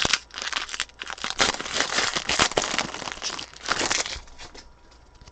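Trading card pack wrapper crinkling and tearing as it is opened, with a dense run of crackles that dies away near the end.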